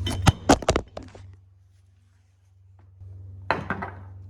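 A few sharp knocks and clunks of condiment jars and bottles being handled and set down, in a quick cluster at the start and again about three and a half seconds in, over a low steady hum.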